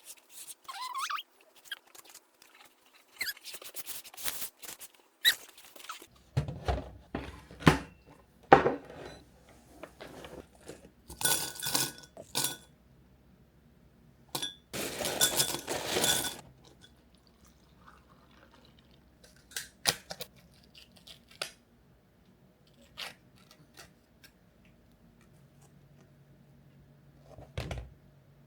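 Clinks, knocks and small squeaks of household objects being handled, with two bursts of rushing hiss, the second lasting about two seconds.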